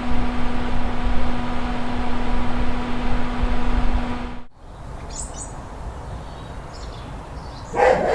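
A loud, steady low rumble with a constant hum, cutting off suddenly after about four and a half seconds; then quieter background noise with a few short high bird chirps.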